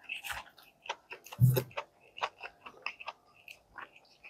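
Close-up mouth sounds of biting and chewing a breaded fried chicken sandwich: a run of short, wet clicks and smacks, with one louder, lower sound about a second and a half in.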